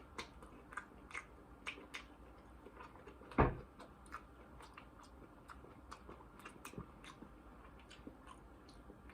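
Eating a crispy battered cheese bite: small scattered crunching and clicking sounds, with one loud dull thump about three and a half seconds in.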